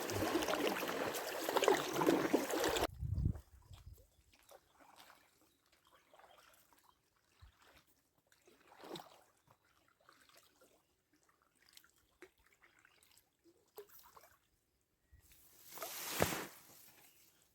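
Water rushing and splashing around a small rowed boat, which stops abruptly about three seconds in. Then faint scattered drips and soft oar splashes follow, the clearest near the end.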